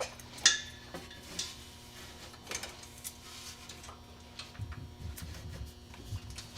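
Scattered light clicks and rustles of hands working an electrical wire into place along a wiring harness, the sharpest click about half a second in.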